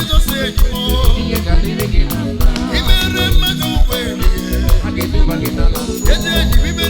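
Live band playing upbeat music with a steady beat, strong bass and shaker-like percussion, with a singer's voice over it.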